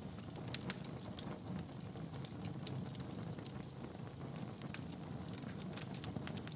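Wood fire crackling in a fireplace: a steady low rumble of the flames with sharp, irregular pops and snaps, the loudest about half a second in.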